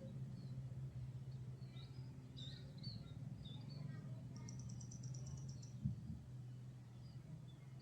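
Birds chirping in short, scattered calls, with a rapid high trill about halfway through, over a steady low hum. A single brief thump comes about six seconds in.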